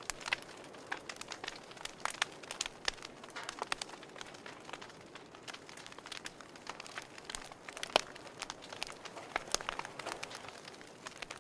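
Wood fire in a fireplace crackling: irregular sharp pops and snaps over a soft steady hiss, with one loud pop about eight seconds in.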